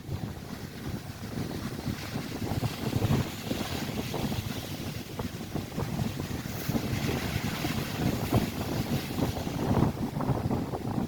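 Strong wind buffeting the microphone in uneven gusts over the rush of lake waves breaking and washing on the shore.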